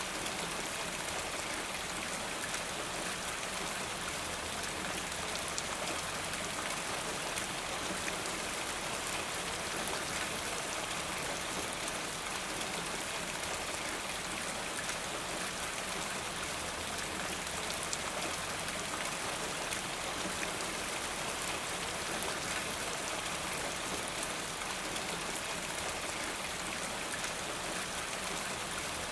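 Steady rain falling, an even patter of drops without a break.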